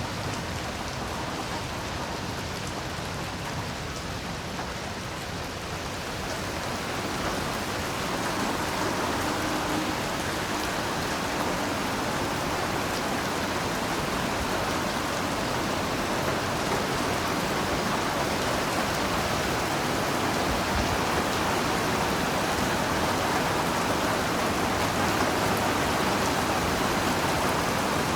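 Heavy rain falling steadily, growing louder and fuller about seven seconds in.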